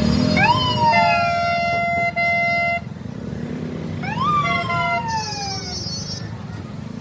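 A siren-style vehicle horn wails twice. Each wail is a quick rise in pitch, then a long falling glide, and the first is followed by a steady held horn tone. Under it runs the low rumble of engines and road traffic.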